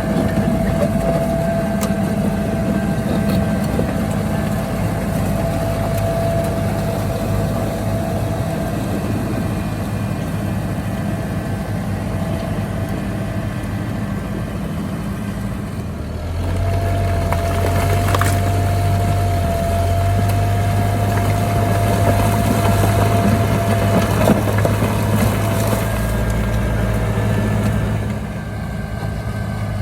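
Heavy diesel engine of earthmoving machinery running steadily, with a constant whine above it. About halfway through the engine note deepens and gets louder, with a few faint knocks, then it eases back near the end.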